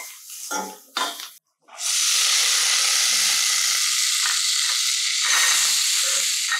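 Diced potatoes sizzling in hot ghee with tempering spices in a stainless-steel kadai, being roasted: a few scrapes of a steel spatula stirring them at first, then a steady loud sizzle from about two seconds in.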